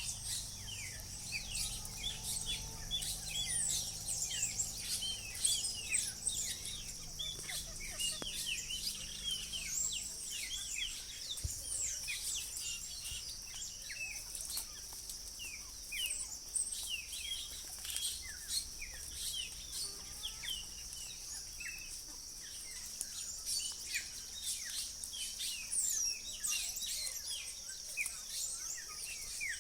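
Many birds chirping over a steady, high-pitched insect drone, with a low hum in the first third that fades out about ten seconds in.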